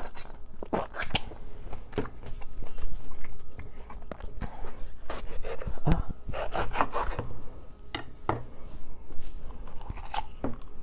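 Bell peppers being handled and cut on a cutting board: scattered crunches, scrapes and knocks.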